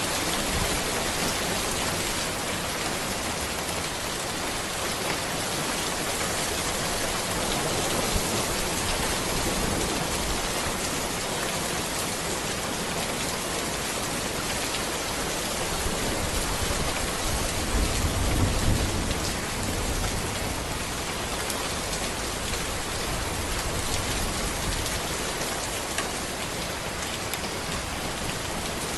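Steady rain falling on a road, a dense, even hiss of drops, with a brief low rumble swelling up about two-thirds of the way through.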